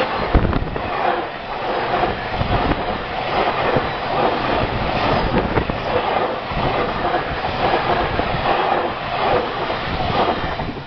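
Container wagons of a JR Freight train rolling past at speed: a steady, loud rumble and rattle with repeated wheel knocks over the rail joints, dropping away at the very end as the last wagon clears.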